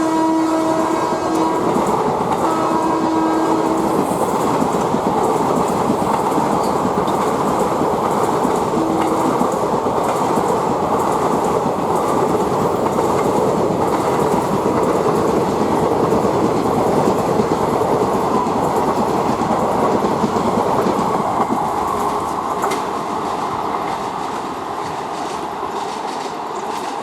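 WAP-4 electric locomotive's horn sounding, ending about a second in, with two more short blasts a few seconds later, as the express passes at speed. The rumble and wheel clatter of the passing coaches carry on throughout and ease off near the end.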